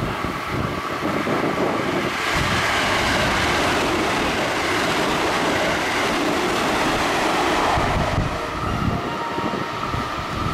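JR Central 313 series electric train running through the station at speed without stopping. The rushing noise of the wheels and car bodies swells about two seconds in, holds strong for several seconds and eases off near the end, with gusts of wind buffeting the microphone.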